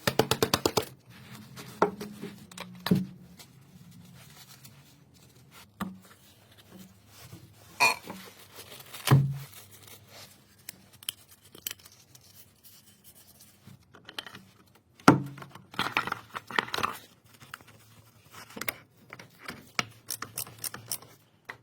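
Scattered clicks, knocks and scrapes of parts and tools being handled during an oil and filter change, opening with a quick run of evenly spaced clicks and with a busier stretch of rattling about 15 seconds in.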